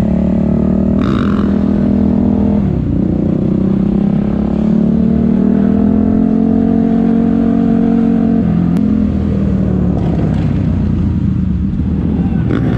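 Supermoto motorcycle engine heard from on board while riding, running at a steady pitch, then rising slowly as it pulls in gear, and dropping about two-thirds of the way through as the throttle eases.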